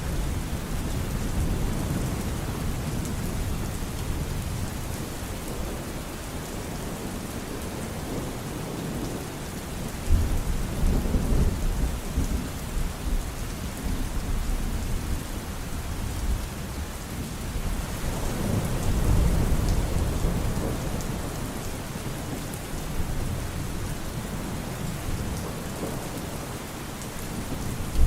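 Steady rain with rolling thunder. A sudden thunderclap about ten seconds in rumbles on for several seconds, a slower swell of thunder comes a little past halfway, and another clap hits at the very end.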